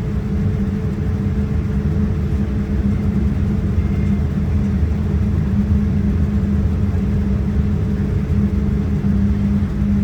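Steady low rumble of a Boeing 787-9's Rolls-Royce Trent 1000 engines heard inside the cabin, with a steady hum running through it.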